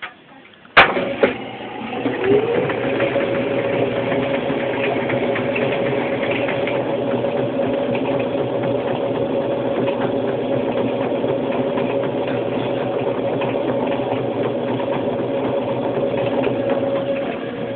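Brastemp Luxo washing machine going into its spin cycle: a sharp click about a second in, then the motor starts with a whine that rises in pitch over a couple of seconds and settles into a steady running hum with the noise of the spinning drum. The hum eases off slightly near the end.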